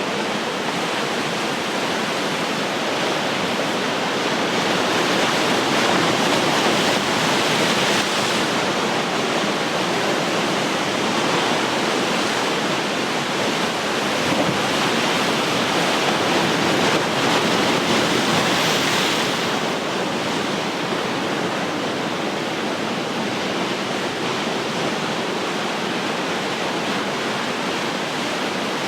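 Ocean surf: a steady wash of waves breaking on the shore, swelling a little louder twice, a few seconds in and again past the middle.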